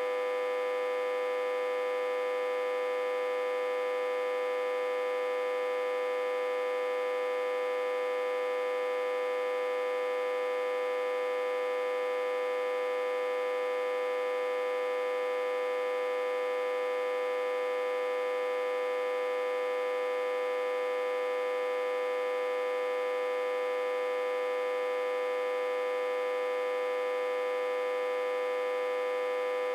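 Autotransformer humming steadily, reverse-connected to a step-down transformer and fed about 60–80 V. It gives a constant, buzzy tone with many overtones and no deep bass, unchanging throughout.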